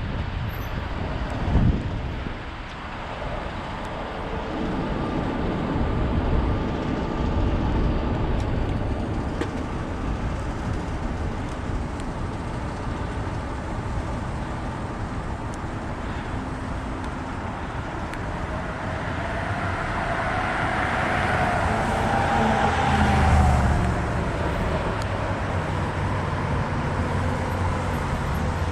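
Road traffic heard from a moving bicycle, a steady rumbling noise with wind on the microphone. A vehicle passes from about twenty to twenty-four seconds in, growing louder and then dropping in pitch.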